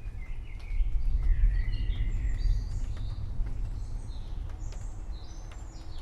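Forest birds chirping over a low rumble of distant thunder that swells about a second in and slowly eases off.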